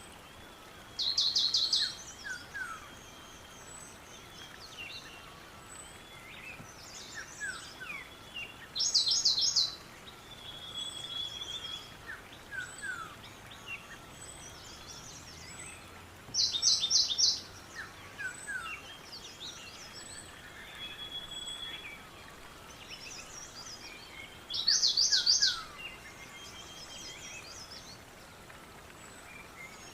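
Birds singing outdoors. One bird repeats a short, rapid, high phrase about every eight seconds, four times, while other birds chirp and whistle more softly in between over a steady background hiss.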